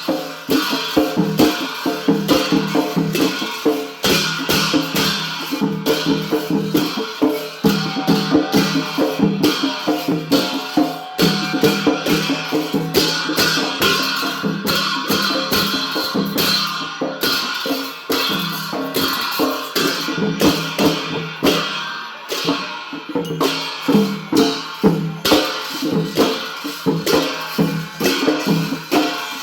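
Traditional Newar drum music for a Lakhe dance: drums and other percussion playing a fast, steady, driving beat.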